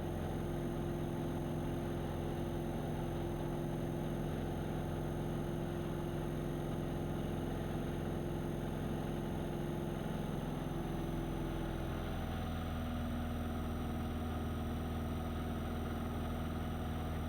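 Light single-engine airplane's piston engine and propeller droning steadily, heard inside the cockpit. About two-thirds of the way through, the engine note shifts to a slightly different pitch, as with a small power change.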